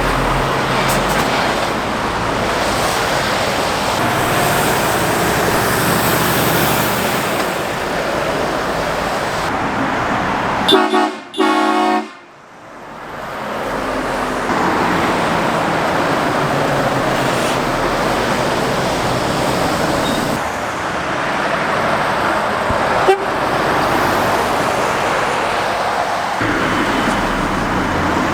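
Road traffic of passing lorries and cars, with a vehicle horn sounding briefly about eleven seconds in. Right after the horn the sound cuts out for about a second and fades back in.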